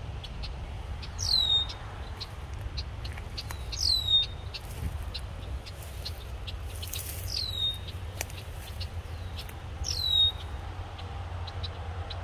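A bird repeats a short, high call that slides steeply downward, four times about three seconds apart. Scattered faint chirps and ticks from other birds sound in between.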